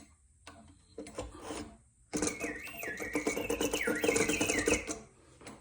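A Jordan Hettich singing bird clock's mechanical bird song: after a few clicks as the mechanism is tripped, a whistle warbles and glides up and down over the rasp of the works. It runs for about three seconds and cuts off suddenly about a second before the end.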